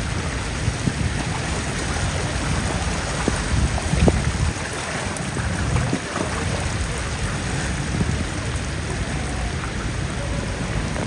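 Heavy rain falling steadily, a dense even hiss, with a sharp knock about four seconds in.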